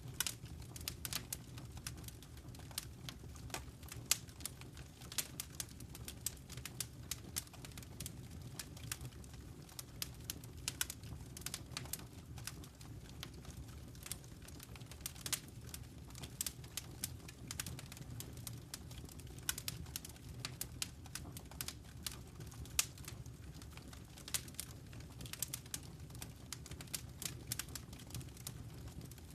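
Wood fire crackling in a fireplace: a continual run of sharp, irregular pops and snaps over a steady low rumble.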